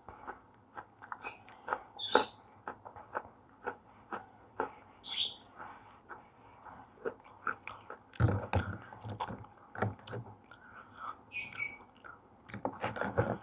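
Slate pencils being bitten and chewed close to the microphone: irregular sharp crunches and snaps, with denser runs of louder crunching about eight seconds in and again near the end.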